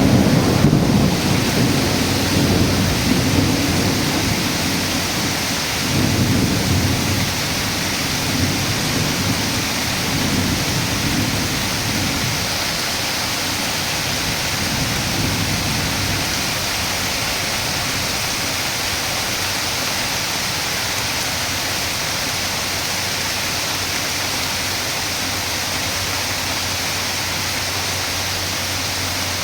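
Heavy rain pouring steadily. Low rolls of thunder come near the start and again about six and ten seconds in, then die away, leaving the steady downpour.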